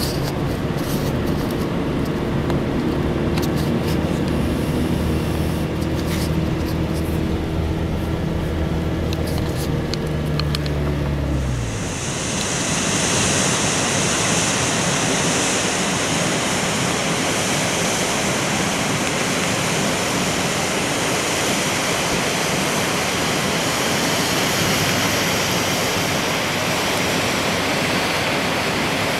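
A vehicle engine running steadily, then winding down and stopping a little before halfway through; after that, a steady loud rush of flood water.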